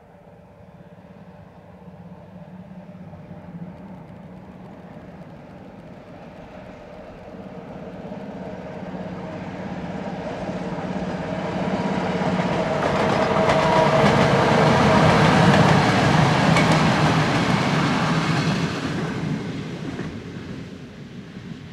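EA-class 5100 kW six-axle electric locomotive hauling a short passenger train across a viaduct. The rumble and wheel-on-rail clatter build as it approaches, with a steady hum underneath, are loudest about two-thirds of the way in, then fade as the train passes.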